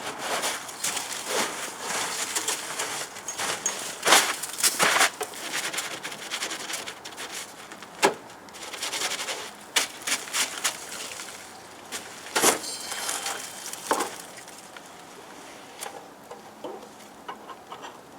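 Close handling noise as a camera is mounted on a tripod: irregular clicks, knocks and rustling. The handling is busiest in the first half, with a few sharper knocks, and it thins out toward the end.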